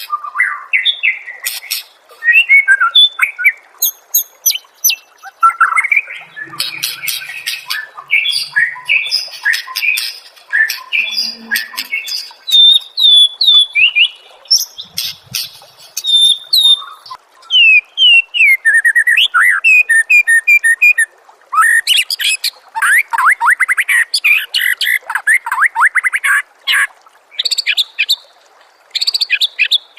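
Loud, varied songbird song from a murai masteran (training recording for white-rumped shamas): a continuous string of whistles, chattering phrases, runs of repeated falling notes and fast trills, with brief gaps between phrases.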